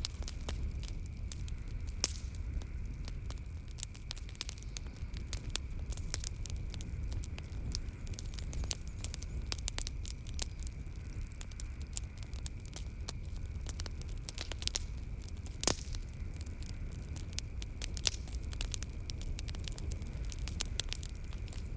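Wood fire crackling and popping in a fireplace over a steady low rumble of the flames, with sharper pops about two seconds in and about three-quarters of the way through. A faint steady high-pitched hum sits underneath.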